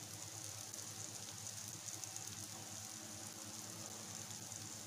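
Faint, steady sizzle of bitter gourd pieces and gram flour frying in a wok, with a faint low hum underneath.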